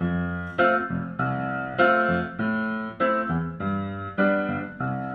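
Piano playing an upbeat run of chords, a new chord struck about every half second.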